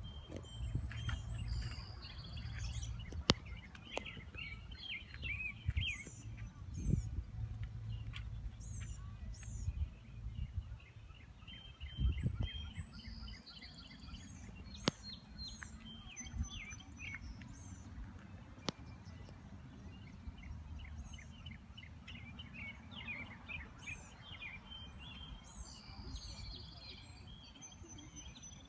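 Several small birds chirping and trilling over a low rumble of outdoor background noise, with a few faint clicks.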